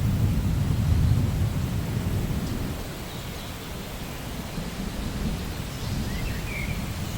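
Rainforest ambience of steady rain with a low rolling rumble of distant thunder that eases off partway through and swells again. A few short, faint bird chirps come in near the end.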